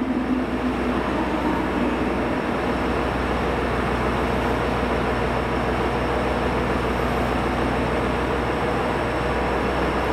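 Train at a station running with a steady, even noise, a faint held tone and a low hum underneath.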